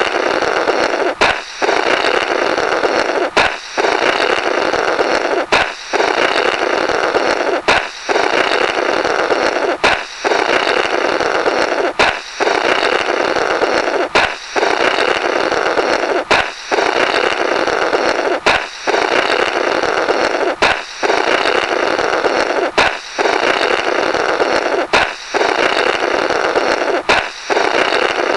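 Comic 'blorrrt' balloon sound effect, repeated about every two seconds: a sharp balloon pop, then a long noisy blow through the burst balloon's remnants.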